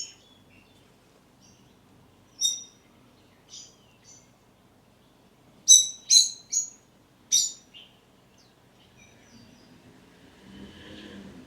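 Swinhoe's white-eyes giving short, high chirps: single calls at first, then a quick run of four loud ones about six seconds in, and fainter calls after. A soft low rustle comes near the end.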